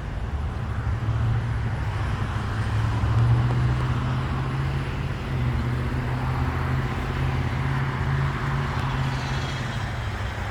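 Steady low motor-vehicle engine hum with road traffic noise.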